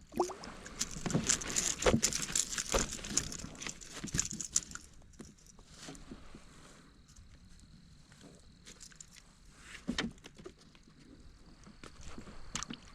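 A just-landed white bass flopping and splashing in and against a kayak while it is handled and unhooked: a dense burst of wet slaps, scuffs and rattling clicks for the first few seconds, then a few scattered knocks.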